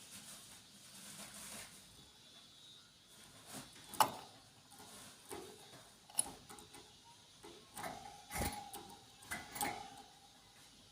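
Small birds giving faint squeaky chirps, among scattered sharp clicks and knocks.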